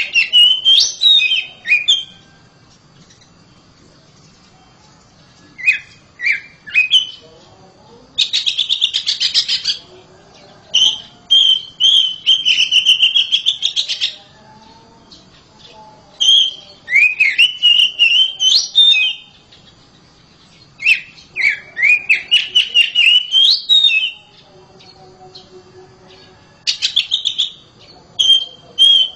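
Oriental magpie-robin singing loudly in bouts of varied whistled phrases lasting a few seconds each, with short pauses between. A couple of bouts open with a fast rattling run of notes.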